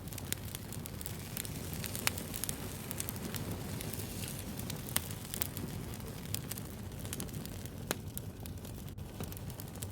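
Wood fire crackling: a steady low rumble of burning with irregular sharp pops and snaps, the loudest about two and five seconds in.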